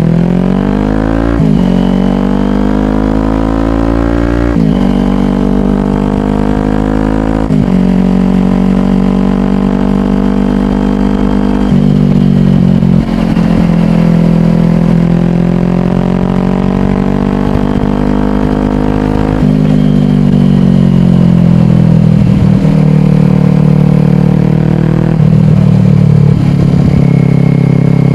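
Kawasaki Ninja 400's parallel-twin engine running through a slip-on exhaust. It accelerates, with the pitch climbing and dropping back at three upshifts in the first eight seconds or so. It then cruises at a fairly steady pitch, changing a few more times with throttle.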